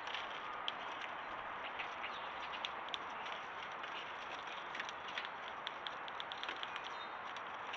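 Scattered short, sharp ticks and clicks from a squirrel and birds at food, coming thicker in the second half, over a steady background hiss.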